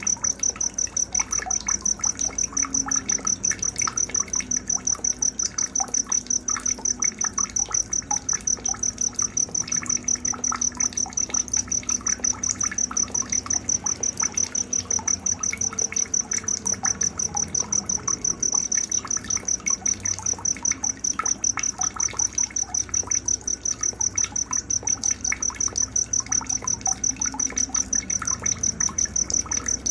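Night-time nature sounds: an insect such as a cricket keeps up a high-pitched, evenly pulsing trill without a break, with scattered softer chirps beneath it.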